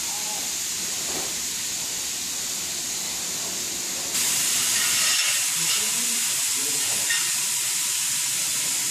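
Steady hiss from an automatic industrial ultrasonic cleaning machine, stepping up louder about four seconds in.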